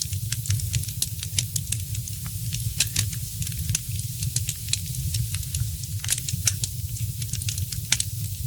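Wood fire crackling in a fireplace: frequent sharp pops and snaps at irregular times over a steady low rumble.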